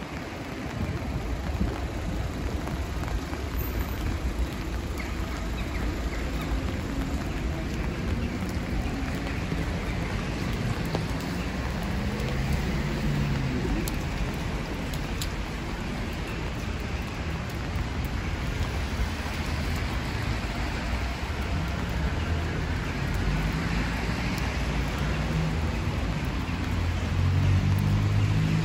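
Steady rain falling on wet city pavement and street, an even hiss of drops, with a low rumble underneath that swells near the end.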